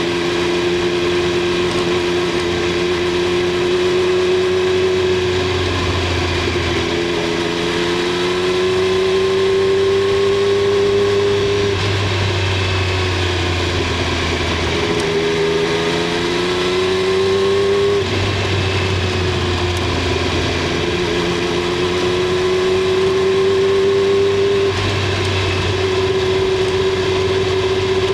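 Triumph Street Triple 765 R's inline three-cylinder engine and exhaust running under way. The engine note climbs slowly and falls off sharply about five times as the revs rise and drop.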